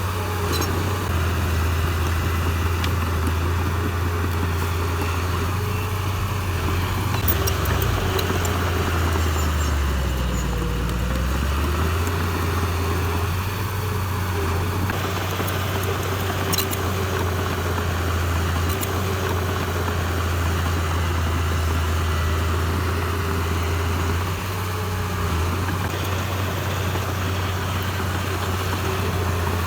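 Heavy diesel engine of earthmoving machinery running steadily, its pitch dipping briefly and recovering about ten seconds in. A few faint clicks or clanks are heard over it.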